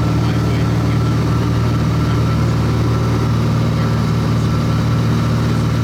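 Steady drone of a small propeller plane's engine heard inside the cabin, holding an even pitch with no change in power.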